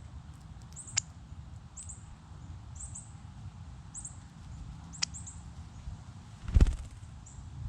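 Short, high-pitched double chirps repeating about once a second over a low rumble, with two sharp clicks and a loud low thump about six and a half seconds in.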